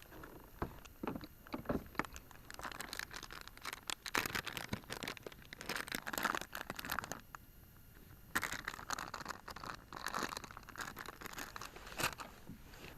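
Crinkly packaging being handled close by: irregular crackling and rustling in two long spells, with a few sharper clicks.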